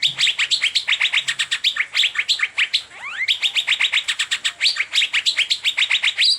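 Asian fairy-bluebird (cucak biru) singing a fast, continuous chattering run of high chirps, about nine notes a second, broken now and then by a slower rising whistle.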